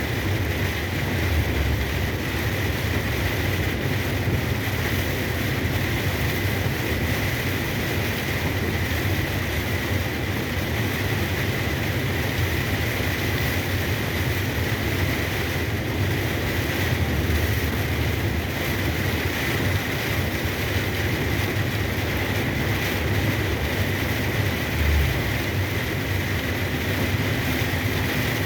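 Truck on the move in heavy rain: a steady low engine and road rumble under an even hiss of rain and tyre spray, with a faint steady whine.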